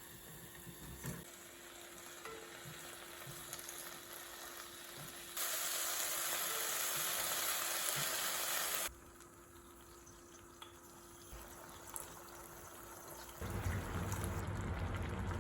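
Food sizzling in a frying pan, with faint clicks and clatter. The sizzle turns loud and even about five seconds in and cuts off after about three and a half seconds. A low rumbling noise comes in near the end.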